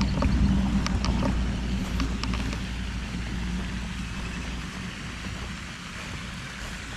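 Car engine running with a steady low rumble that eases down about five seconds in, with a few light clicks in the first couple of seconds.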